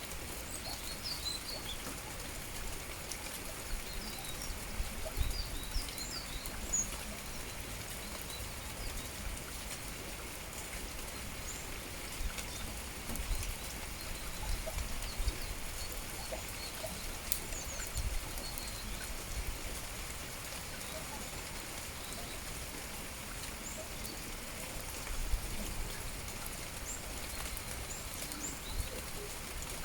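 Steady rain with small birds chirping, short high calls scattered throughout, and a few low thumps.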